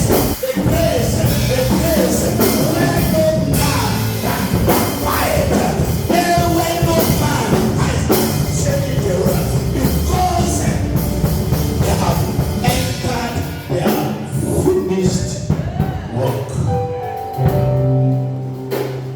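Loud band music with a drum kit and a voice singing over it.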